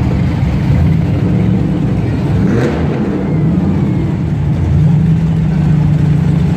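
Show car engines running loud as the cars drive out, a low engine note rising and falling slightly with the throttle.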